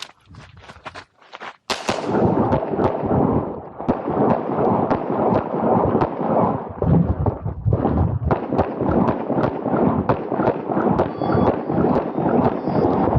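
Handgun fired in rapid strings at a practical shooting match, the first shot coming just under two seconds in after the start beep. The shots follow closely, several a second, with ringing between them.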